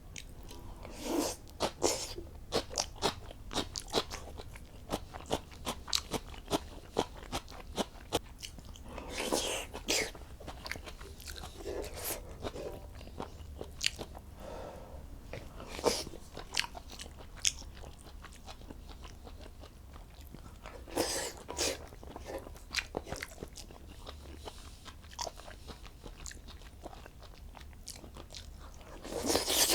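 A person eating close to the microphone: irregular crunching and chewing with sharp bites, and a few longer noisy smacks, over a steady low hum.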